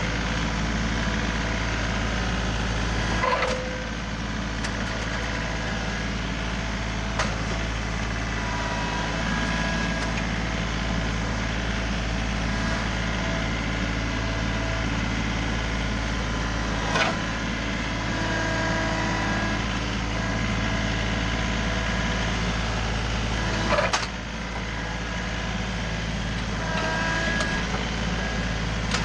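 John Deere 3038E compact tractor's three-cylinder diesel running steadily under work, with a few sharp knocks spread across the stretch and short metallic squeaks in between.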